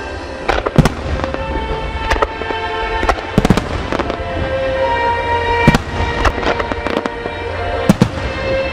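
Aerial firework shells bursting in a series of sharp booms, the loudest about a second in, near the middle and near the end, with music playing throughout.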